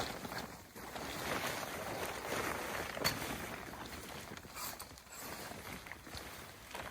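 Irregular rustling and crunching in snow, from someone moving about and handling camping gear.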